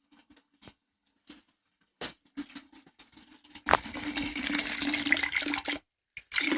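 A few faint clicks of hose handling, then about three and a half seconds in a steady stream of water starts suddenly, pouring from a siphon hose draining a water heater tank into a bucket. It stops for a moment near the end and comes back.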